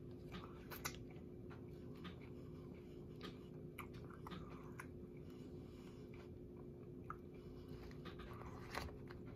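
A person chewing a mouthful of turkey sub sandwich close to the microphone, with small scattered mouth clicks.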